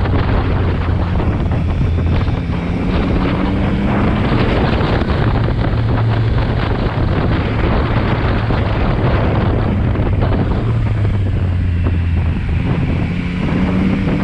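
Motorcycle engine running at road speed under heavy wind noise on the microphone. The engine note rises as the bike accelerates, about a second in and again near the end.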